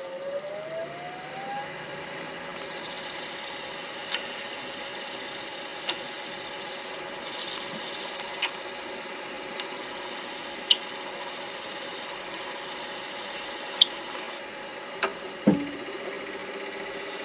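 Midi lathe running with 120-grit sandpaper held against the spinning acrylic pen blank: a steady motor hum whose pitch rises in the first second or so, and a hissing scrape of sanding from about two and a half seconds in until about fourteen seconds. A few sharp ticks come through, and a single knock about fifteen seconds in.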